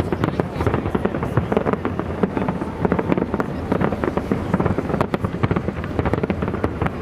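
Aerial firework shells bursting in a rapid, dense barrage, the bangs running together into a continuous crackling rumble.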